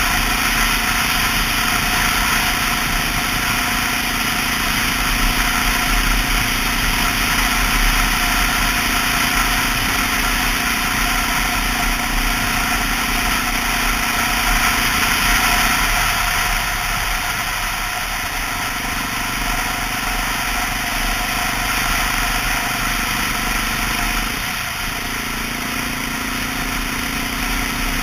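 Honda XR650L's single-cylinder four-stroke engine running under way, with a steady rush of wind and road noise. The engine note falls away about sixteen seconds in and dips briefly again about twenty-five seconds in.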